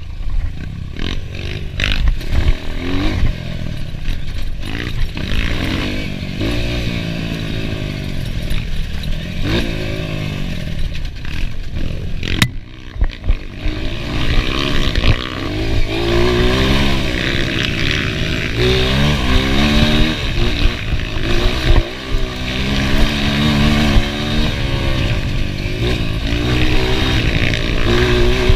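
Enduro motorcycle engine revving up and down over and over, its pitch rising and falling every second or two, with scattered knocks and one sharp click about twelve seconds in.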